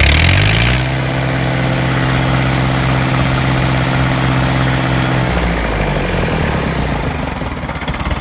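The 1967 International Harvester B275's four-cylinder diesel engine is revved: its pitch climbs over the first second after a brief rush of noise, holds steady for about four seconds, then drops back to a lower running speed.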